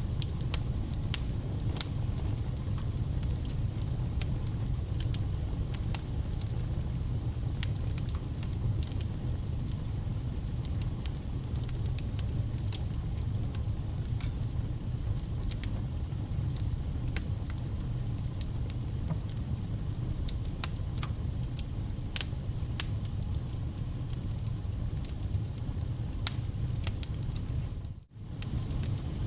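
Wood fire burning: a steady low rumble with irregular sharp crackles and pops from the burning logs. The sound briefly drops out near the end.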